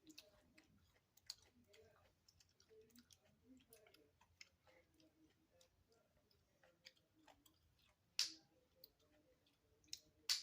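Faint, scattered clicks and taps of small phone parts and tools being handled during an iPhone repair, with a short louder rustle about eight seconds in.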